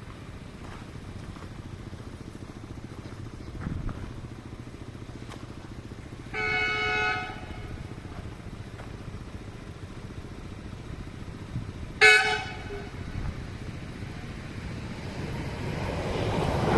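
Approaching train sounding its horn twice: a one-second blast about six seconds in and a shorter, louder blast about twelve seconds in. The rumble of the oncoming train grows near the end.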